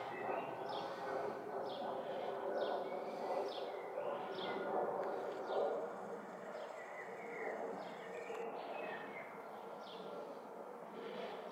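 A small songbird calling over and over, a short high falling note repeated about every two-thirds of a second, stopping near the end, over a steady low background noise.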